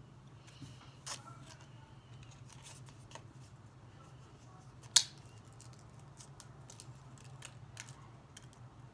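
Sparse, irregular clicks and taps, typical of someone working at a desk, with one sharp, loud click about five seconds in. A low steady hum runs underneath.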